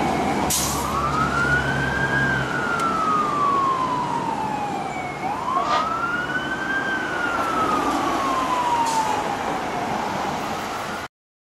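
Fire engine siren wailing: a tone that climbs quickly and then falls slowly, twice, over a low engine rumble that fades after the first couple of seconds. The sound cuts off abruptly near the end.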